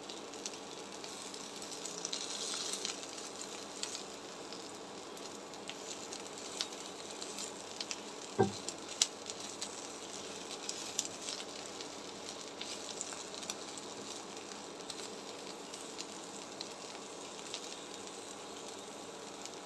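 Dried fesha fish, garlic and chillies sizzling as they fry in oil in a wok, stirred and pressed with a silicone spatula, with scattered small scraping clicks. One louder knock comes about eight seconds in.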